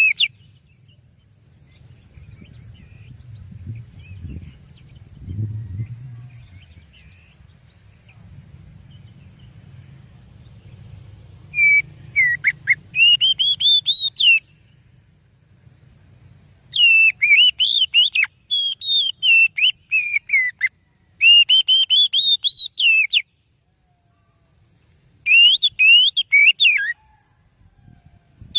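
Oriental magpie-robin (kacer) singing: loud bursts of quick, bending whistled notes, coming in about twelve seconds in and returning three more times with short pauses between. Before the song there is only a faint low rumble.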